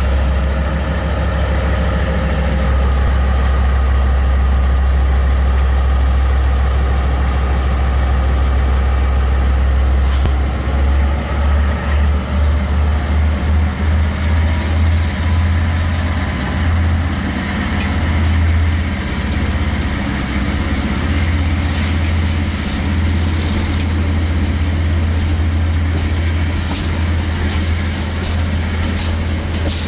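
KiwiRail DL-class diesel-electric locomotives hauling a container freight train past at close range, their engines giving a loud, deep, steady drone. From about ten seconds in, the passing container wagons take over with a rhythmic thumping of wheels on the rails, and sharper clicks and rattles follow near the end.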